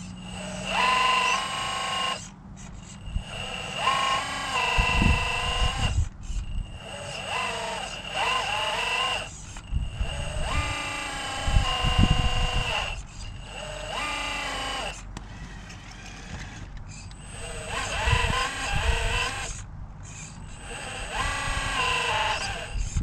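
RC crawler's electric motor and gearbox whining in repeated bursts of throttle, the pitch rising and falling within each burst over a steady high electronic tone, with a few low thumps along the way.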